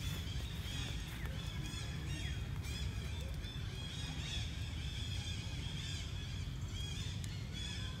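Outdoor ambience: many short, high chirps from small birds, repeating quickly over a steady high tone and a constant low rumble.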